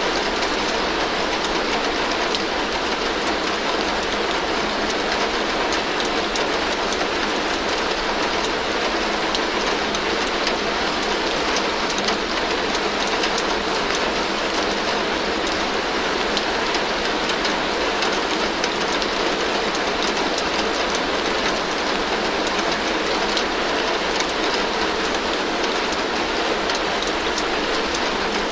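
Heavy rain falling steadily on a tin roof: a dense, even hiss peppered with countless small drop ticks.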